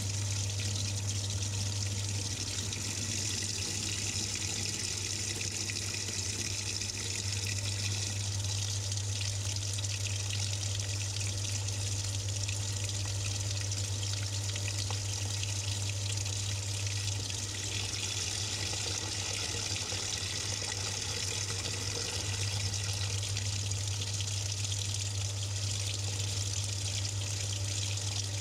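Water running and splashing in the drum of a Samsung 6.5 kg top-load washing machine, heard from inside the drum, with a steady low hum underneath.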